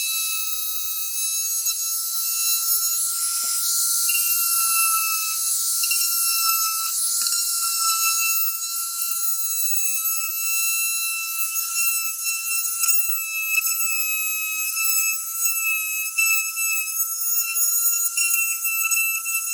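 Small high-speed electric tool motor running with a steady high-pitched whine that wavers slightly in pitch.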